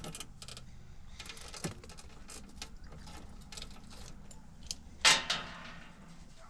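Irregular light mechanical clicks and ticks, with one louder, longer clunk about five seconds in.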